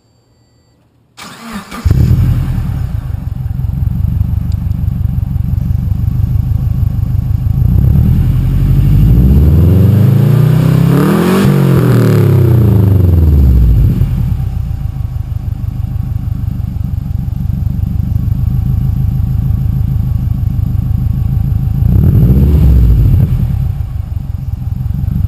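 A 2004 Subaru Forester XT's turbocharged 2.5-litre flat-four starts about a second in and settles to an idle through a custom exhaust. Near the middle it is revved once, rising over a few seconds and falling back, and it is blipped briefly near the end.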